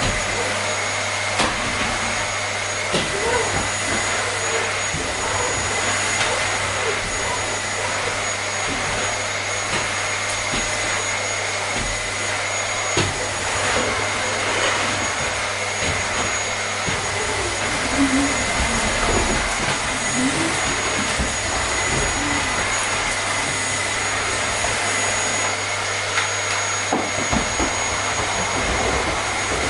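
Vacuum cleaner running steadily: an even rushing hiss with a constant high whine and a low hum underneath, and a few faint clicks.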